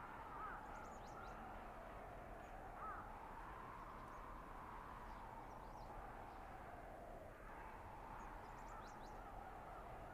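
Blizzard wind howling through a winter forest, a steady rush with a whistling tone that slowly rises and falls. A few faint, thin high chirps sound over it.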